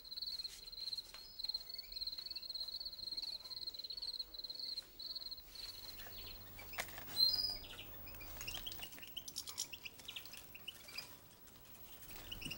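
A cricket trilling in a steady, pulsing high chirp that stops about five and a half seconds in, followed by small birds chirping in short, scattered high notes, one louder chirp among them.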